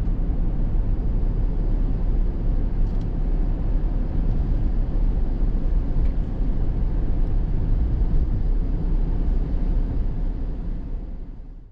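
Steady low rumble like a vehicle travelling, fading out over the last second.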